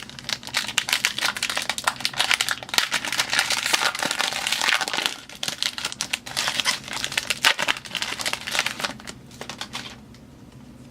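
Foil wrapper of a trading card pack crinkling and rustling as it is torn open and handled, stopping about a second before the end.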